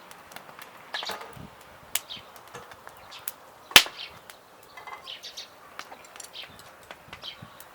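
Wood fire crackling in a fire stand, with scattered sharp pops and one loud snap about four seconds in, while birds chirp.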